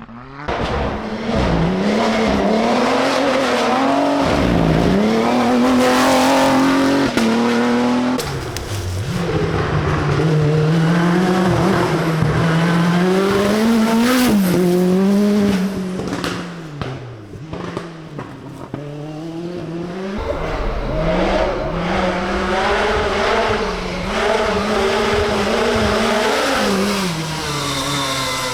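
Rally car engines driven hard, revving up and then dropping in pitch at each gear change, again and again.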